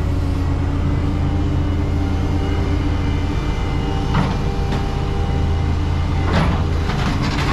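Industrial guillotine scrap shear and the crane feeding it, running with a steady low drone. Two sharp metal clanks come about four and six seconds in as scrap is forced down and chopped.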